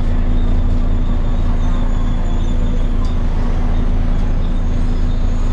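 Volvo B7TL double-decker bus's diesel engine and drivetrain running steadily, heard from inside the bus as a constant low hum with a steady high whine above it.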